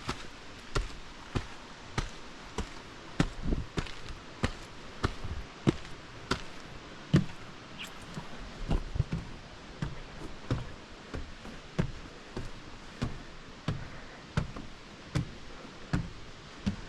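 A walker's footsteps thudding in an even stride, about three steps every two seconds, over a faint steady hiss.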